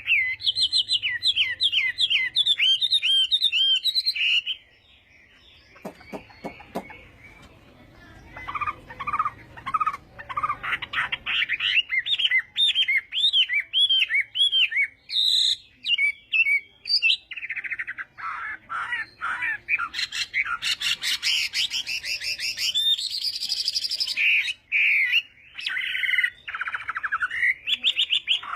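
Chinese hwamei singing a loud, varied song of rapidly repeated whistled notes, phrase after phrase, with a few seconds' pause near the start broken by a few clicks.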